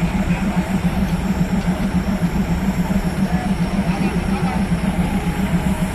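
Diesel railcar engine idling, a steady low pulsing drone, with faint voices in the background.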